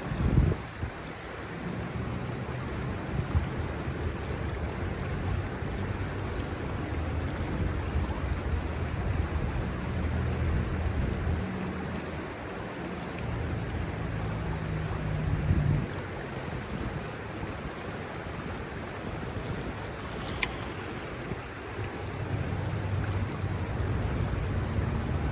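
Shallow river water rushing steadily, with wind buffeting the microphone in swells of low rumble.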